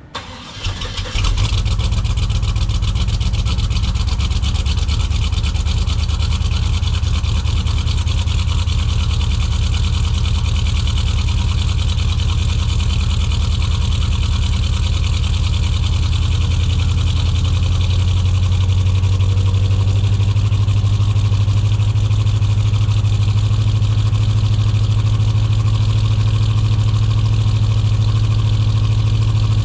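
Small-block Chevy 350 V8 in an S10 pickup firing on a cold start about a second in, then running steadily at a fast cold idle. It is a bit rough because the engine has not been fully tuned.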